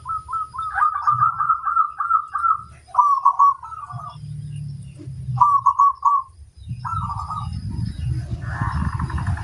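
Zebra dove (perkutut) singing: a quick run of repeated cooing notes, then three short cooing phrases with pauses between, over a low rumble.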